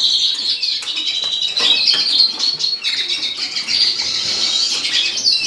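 Many canaries chirping and singing together, a dense, continuous chatter of high trills.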